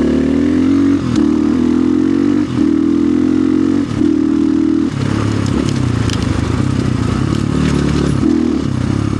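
2025 Orion RXB250XL dirt bike's engine running under throttle while riding. The revs dip briefly and pick up again several times, then run lower from about five seconds in.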